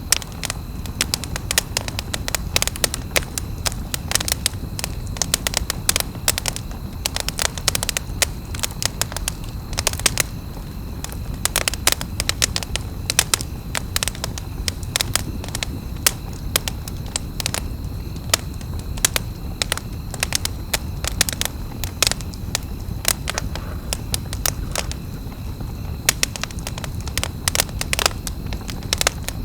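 Campfire burning wood, crackling with dense, irregular sharp pops and snaps over a steady low rumble.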